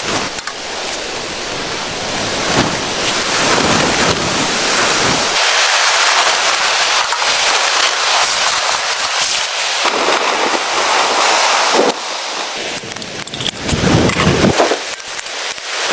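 Blizzard wind gusting in a loud noisy rush, with scattered crackles and pattering.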